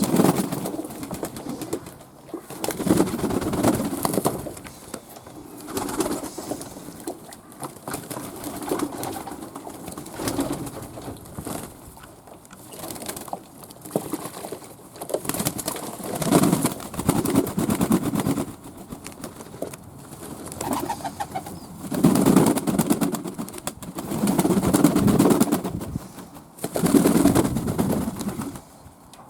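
Fantail pigeons cooing over and over, several calls overlapping, loudest in the last few seconds.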